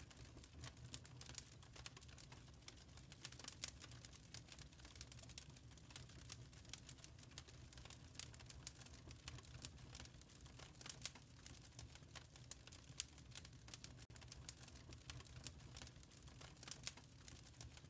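Faint fire crackling in a fireplace: irregular small pops and snaps over a low steady rumble.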